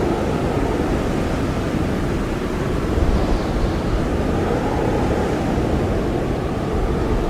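Blizzard wind blowing hard and steadily, a dense low rushing noise that swells slightly now and then.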